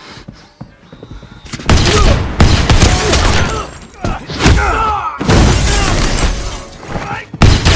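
Action-film fight sound effects: a dense run of hard punch and body impacts mixed with gunfire, starting about a second and a half in after a near-quiet moment and coming in loud clusters.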